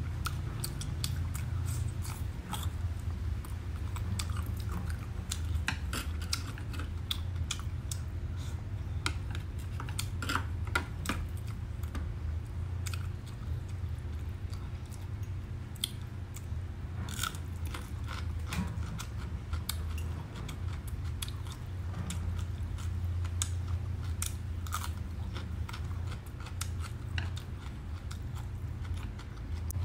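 Close-up chewing and crunching of crisp roast pork and raw winged beans: irregular crisp crackles and bites throughout, over a steady low hum.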